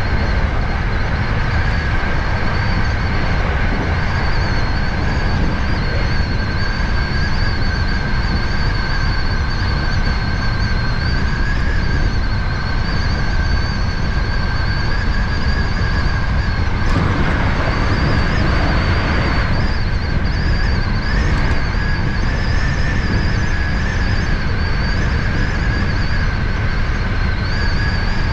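Hankyu 7000 series electric train running, heard from inside the front car behind the driver's cab: a steady low rumble with two thin, steady high-pitched whines over it. For a few seconds about two-thirds of the way through, a louder rushing noise swells up and then falls away.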